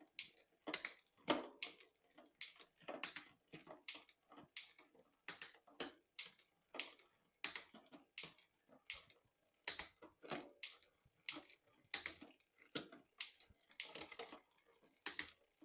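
Trek Marlin 7's 10-speed drivetrain clicking, about three sharp clicks a second, as the gears are run through again to check the shifting after the adjustment.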